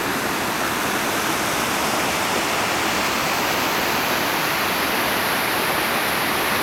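Steady, loud rush of whitewater in a river gorge, an even noise without breaks.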